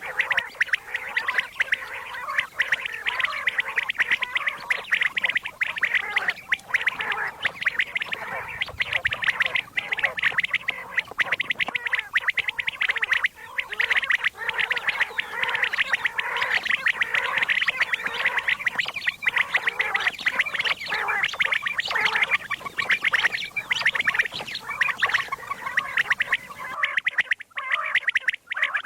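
Common quail calling: a dense, unbroken chatter of rapid, overlapping call notes, as on a quail-calling track played to draw birds in.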